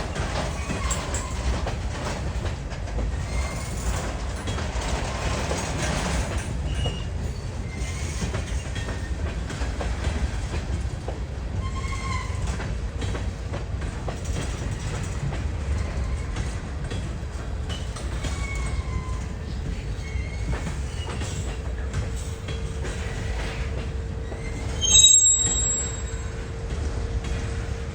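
A train rolling through, its wheels on the rail giving a steady low rumble with short, scattered wheel squeals. A steady tone comes in about two-thirds of the way through, and a sharp, loud high squeal sounds about 25 seconds in.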